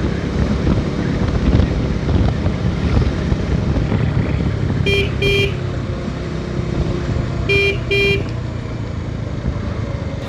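Motorcycle engine running under way with wind and road noise. A vehicle horn gives two short beeps about five seconds in, and two more near eight seconds.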